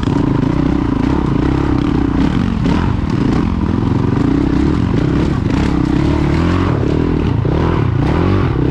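Honda CRF450 dual-sport motorcycle's single-cylinder four-stroke engine running on the trail, its pitch rising and dipping as the throttle changes.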